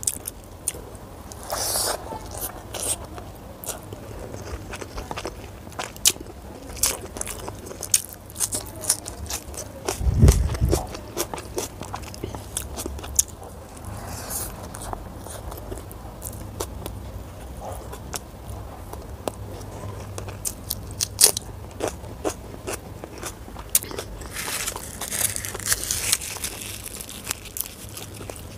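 Close-miked eating: a person chewing and biting mouthfuls of rice and chicken curry eaten by hand, with many sharp mouth clicks throughout. A dull low thump about ten seconds in.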